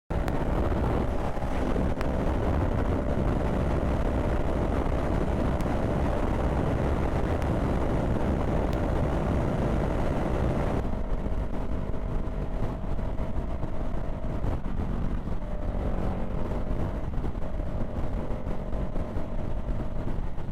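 Motorcycle engine running at a steady pitch under a steady rushing noise; the rushing eases off about eleven seconds in.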